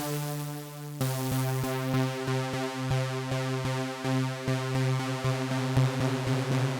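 Elektron Syntakt's SY Swarm digital synth machine playing a held pitched tone rich in overtones, dry with no effects. The tone shifts to a new pitch about a second in and is retriggered in a steady pulse of about three to four notes a second.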